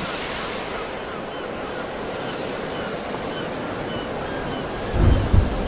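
Sea surf washing steadily on the shore. About five seconds in, a gust of wind buffets the microphone with a low rumble.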